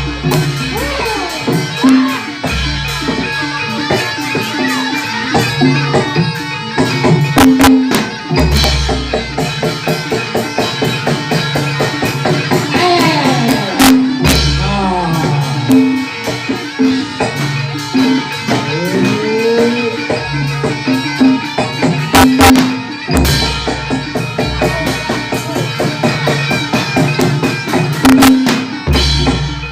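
Gamelan-style barongan accompaniment music: fast drumming and rapid metallic strikes over deep beats that recur every second or two, with notes that slide in pitch near the middle.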